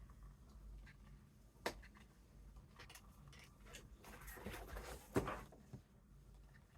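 Quiet handling of a gift-bag piece being glued in place: a sharp click about a second and a half in, then rustling around four to five seconds in, with another click in the middle of it.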